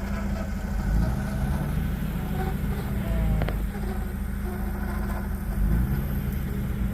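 4x4 vehicle engine running at low revs, with a buzzy tone and a few small rises and falls in revs.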